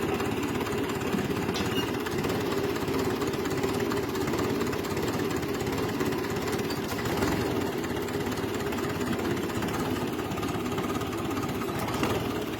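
Engine of a Ferguson 'Grey Fergie' tractor running steadily.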